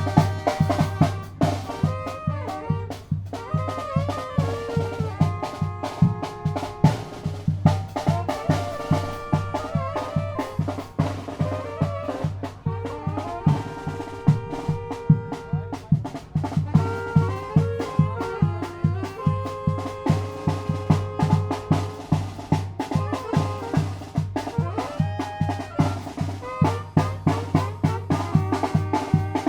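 Tamborazo band playing: brass instruments carry the melody over a steady beat of tambora bass drum and snare.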